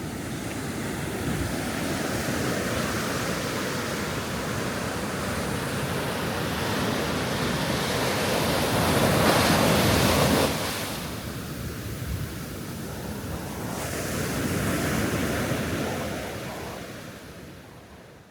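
Ocean surf washing onto a beach: a steady rush of waves that swells to a loud break about halfway through, drops off suddenly, swells again, and fades out near the end.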